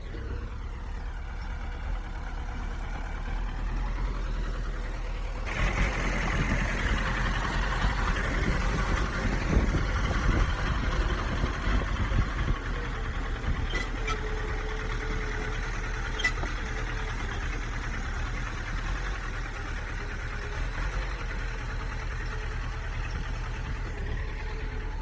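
Heavy diesel engine of a bulldozer running steadily, growing suddenly louder and rougher about five seconds in, with irregular knocks for several seconds, then settling back to a steady run.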